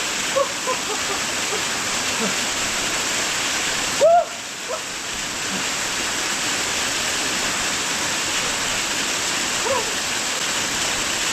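Waterfall pouring into its pool, a steady dense rush of water throughout. A man gives a few short whoops and yelps over it, the loudest about four seconds in, as he stands in the cold water.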